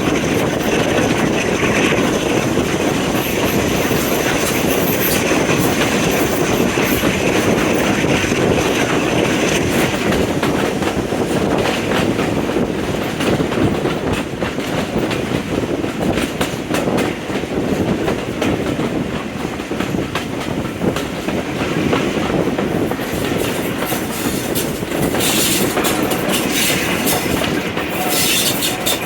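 A train running along the rails: a steady rumble with wheels clicking over the rail joints, the clicks coming more often near the end.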